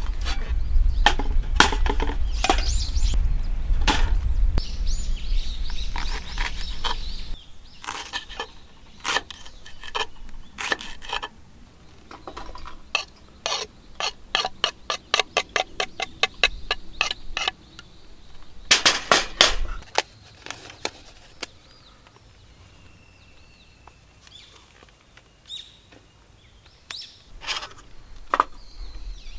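Knocks and clicks of food preparation, with a run of quick, even knife chops on a cutting board, about five or six a second, for roughly four seconds in the middle. A low rumble runs under the first several seconds.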